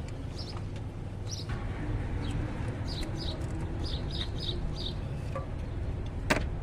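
A bird chirping repeatedly in short high notes over a steady low hum, with one sharp click near the end.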